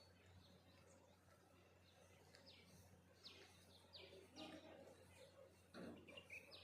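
Faint birdsong: a few short, sharply falling chirps in quick succession around the middle, over a steady low hum.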